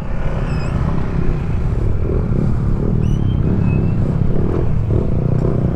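Motorcycle engine idling steadily with an even low rumble.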